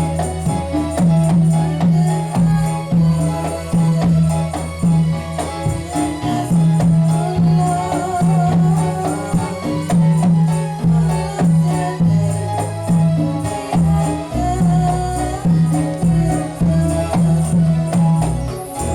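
Ndolalak ensemble music: drums keep a steady beat, with jingling tambourine-like percussion above it.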